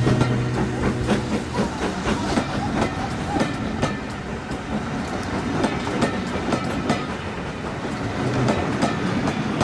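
Heritage railway train running on the track, its wheels clicking and clattering over the rail joints, with a low steady hum near the start and again briefly near the end.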